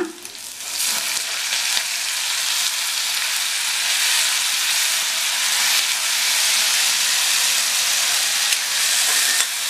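Chopped tomatoes dropped into hot oil with frying shallots and green chillies in a stainless steel pan, sizzling steadily. The sizzle swells about a second in and holds, with a few light crackles.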